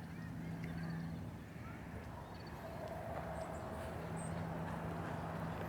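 A few faint, short, high chirps from small songbirds in the brush, over a steady low hum.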